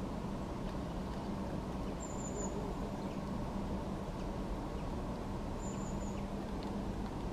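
A steady low background rumble with a faint hum. Over it come two brief, very high, thin squeaky calls, about three and a half seconds apart.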